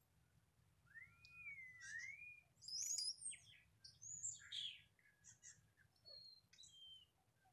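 Birdsong: a varied run of whistled notes, starting with slurred rising-and-falling whistles, then higher, sharper notes, loudest about three seconds in and thinning out near the end.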